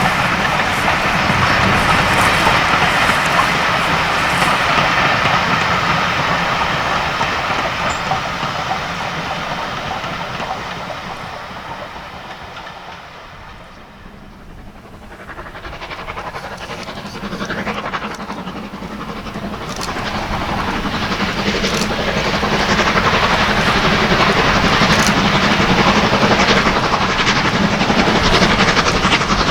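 Steam-hauled train running on the line, with wheels clattering over the rail joints and steam hissing. The sound dies away toward the middle, then builds up again and stays loud.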